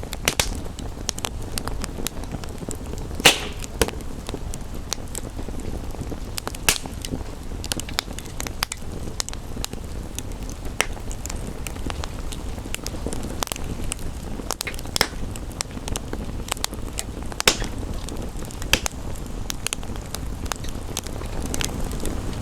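Wood fire crackling, with irregular sharp pops, the loudest about three seconds in, over a steady rushing background of rain.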